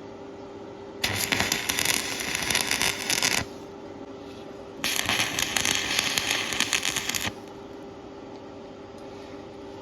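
Stick (shielded metal arc) welding arc crackling in two bursts of about two and a half seconds each, with a short pause between them. A steady hum runs underneath throughout.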